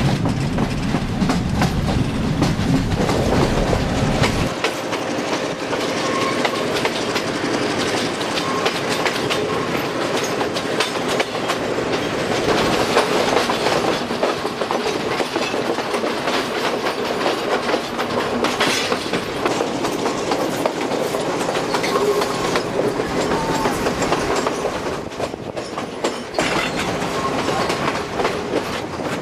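Passenger train running along the line, its wheels clattering over the rail joints with a continuous rattle of the carriage. A deep rumble under it drops away about four seconds in.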